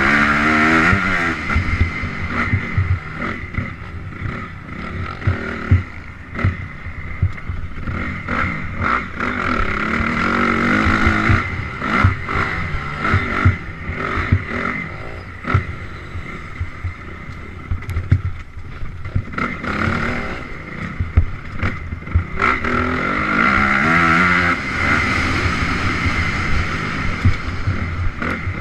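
Honda CRF 250R single-cylinder four-stroke dirt bike engine being ridden hard, revving up and down through the gears, with frequent knocks and clatter from the bike over rough ground.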